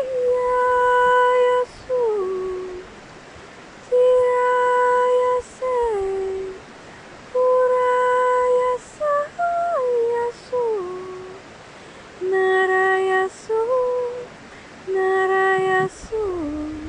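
A woman's voice singing wordless light-language tones: long steady held notes, each sliding down in pitch at its end, in about six phrases with short pauses between them.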